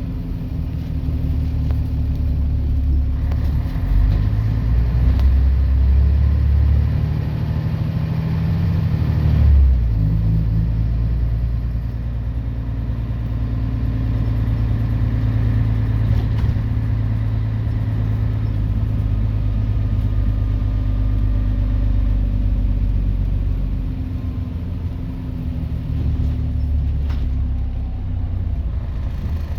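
Scania DSC 11.71 turbo-diesel six of a Scania CN113CLL city bus running under load. The engine note climbs for several seconds, drops abruptly about ten seconds in as the Voith automatic gearbox changes up, then holds steady and eases off near the end.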